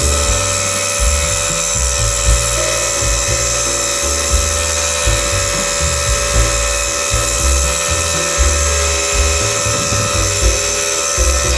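Small high-speed rotary power tool running steadily with a constant high whine, over background music with a bass beat.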